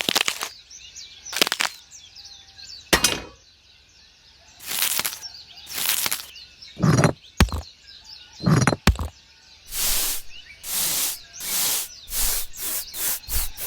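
A series of short noisy sound-effect bursts, irregular at first and then coming faster and more regularly, about two a second, near the end; two of them carry a low thud. Faint bird chirps run underneath.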